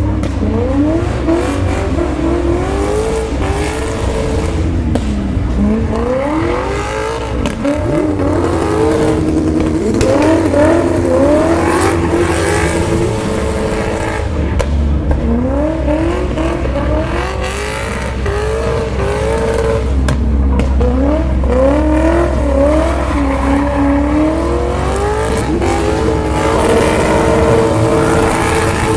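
V8-swapped BMW E36 Compact drifting, its engine revving up and falling back again and again, with a held rev near the end.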